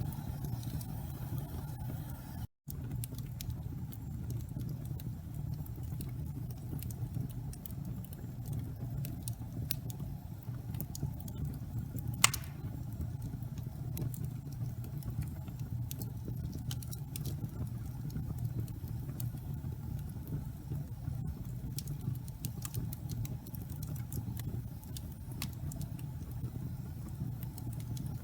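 Wood fire burning in a fireplace: a steady low rumble with scattered small crackles and one louder pop about twelve seconds in. The sound cuts out for a split second near the start.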